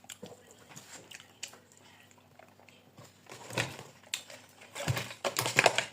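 Someone eating okra stew: faint mouth and eating noises, with louder bursts of noise about three and a half seconds in and again near the end.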